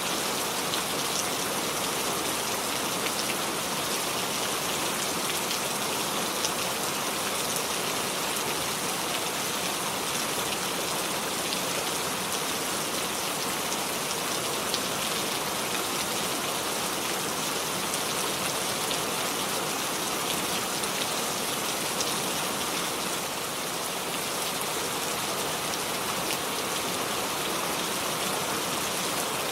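Steady rainfall, an even hiss of rain with scattered drops ticking on surfaces.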